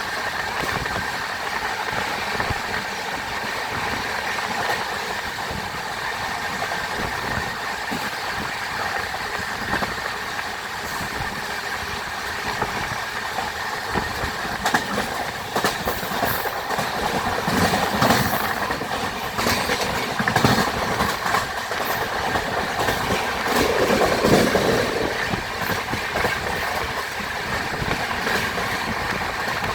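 Shatabdi Express passenger train running on the track: a steady hum, with wheels clattering over rail joints through the middle of the stretch and a louder swell near the end.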